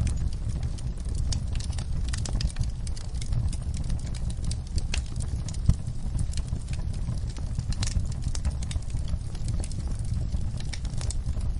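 Wood fire burning in a fireplace: a steady low rumble of the flames with frequent irregular crackles and pops, one sharper pop about halfway through.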